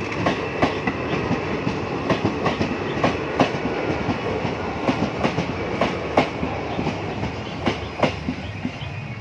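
Train running on the rails: a steady rolling noise with frequent, irregular clicks of the wheels over rail joints.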